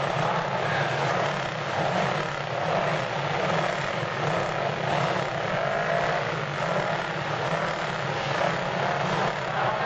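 Antique racing motorcycle engines running at the track: a steady, continuous engine noise whose pitch wavers up and down as the bikes race.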